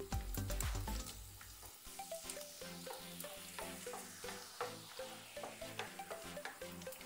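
Peanuts, mustard seeds and dried red chillies frying in hot oil in a nonstick pan, sizzling with many small crackles while a wooden spatula stirs and scrapes them.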